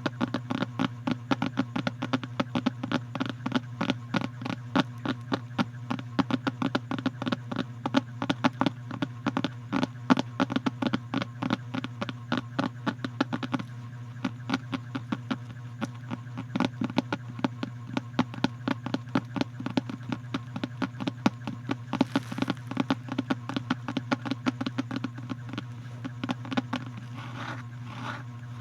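Rapid, irregular close-up clicks, several a second, over a steady low hum; the clicks thin out a little about halfway through.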